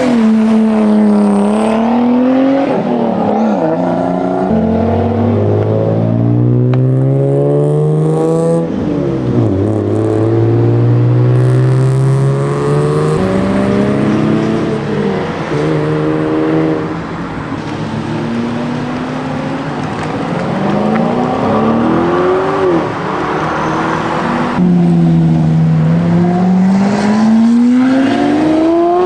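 Car engines revving and accelerating hard, one after another. The engine pitch climbs, drops back at each gear change and climbs again, with more than one car audible at times.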